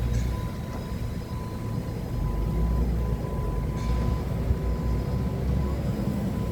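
Forklift engine running with a steady low rumble that swells about two seconds in, under a thin, steady high tone that drops out briefly a few times.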